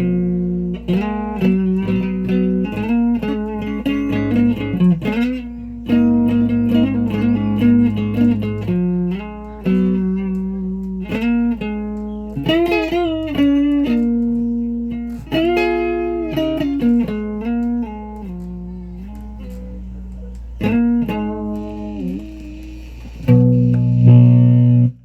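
Guitar played with a pick, a tune of single notes and chords over a steady low hum, ending on a louder chord that cuts off suddenly.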